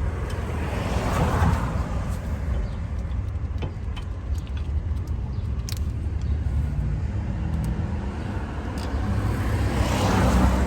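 Road traffic with a steady low rumble, as two cars pass by: one about a second in and one near the end. A few light metallic clicks come in between.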